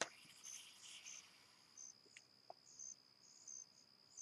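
Crickets chirping faintly: a steady high trill with shorter repeated chirps a little under twice a second. There is a sharp click right at the start.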